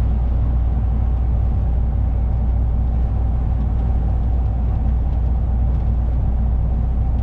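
Steady low drone of a lorry's engine and road noise heard inside the cab while driving.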